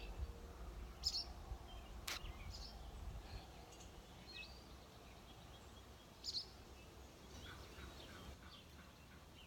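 Swallows giving faint, scattered short chirps as they dive around a person near their nest, alarm calls from birds defending it. A single sharp click about two seconds in.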